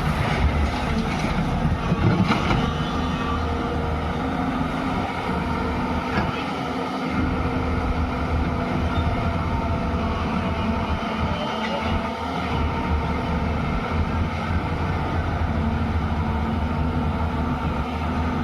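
JCB 205 excavator's diesel engine running steadily under working load, with clattering and knocks in the first couple of seconds.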